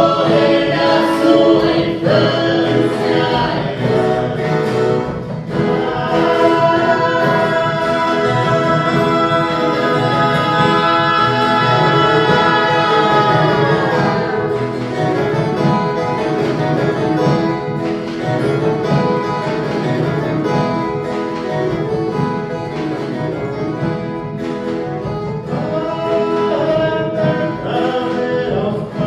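Several voices singing a Christmas song together in harmony, accompanied by viola caipira. The singers hold a long note for several seconds in the middle.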